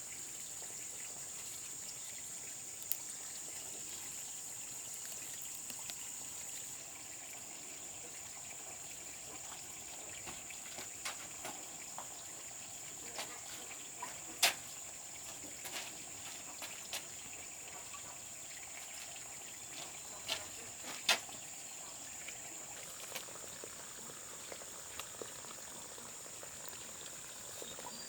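Steady high-pitched outdoor hiss with scattered light clicks and taps from about ten seconds in; the loudest taps come about halfway through and near twenty-one seconds.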